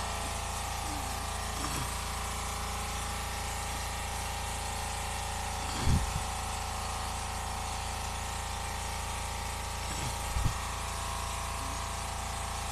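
A steady machine hum holding several fixed tones over a low rumble, with two brief thumps, about six and ten seconds in.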